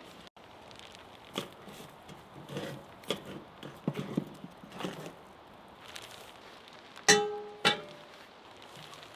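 A run of irregular knocks and thuds from handling cooking tools, then two sharp metallic clanks about half a second apart, each ringing briefly.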